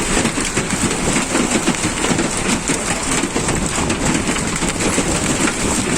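Hail and rain falling hard: a steady, dense clatter of many small impacts.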